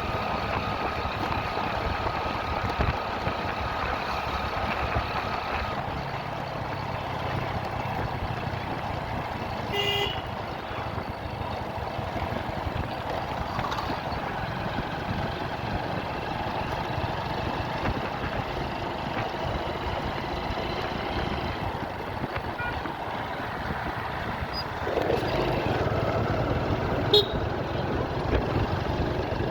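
Motorcycle riding along a road: steady engine and road noise, with a short horn toot about ten seconds in. Near the end the engine sound grows louder, and there is another brief high beep.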